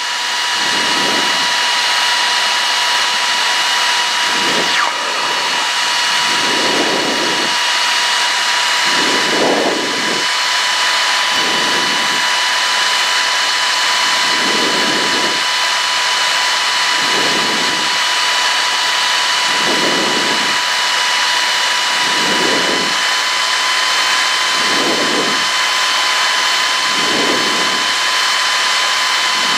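Cabin noise of a Cessna 152 in flight: its Lycoming four-cylinder engine and propeller making a steady drone. A steady high whine runs over the drone, and a low hum swells and fades about every two and a half seconds.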